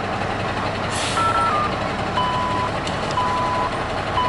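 A heavy truck's backup alarm beeps about once a second, each beep about half a second long, over the steady noise of a diesel engine running. A short hiss of air brakes comes about a second in.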